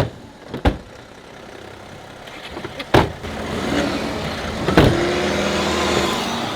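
The BMW 530d's diesel engine running, with the car noise building from about three and a half seconds in. Several sharp knocks sound over it, the loudest near the start, at about three seconds and at about five seconds.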